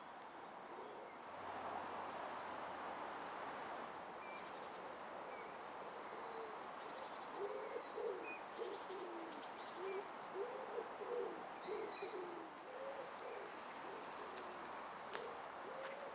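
Outdoor birdsong: a bird's repeated low calls start about halfway through and run in a series, with faint short chirps from small birds scattered throughout over a steady background hiss.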